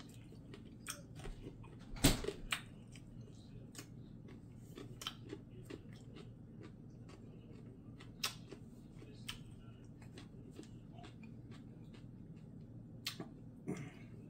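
A person eating stir-fried chicken feet: scattered chewing clicks and mouth smacks, the loudest about two seconds in, over a faint steady low hum.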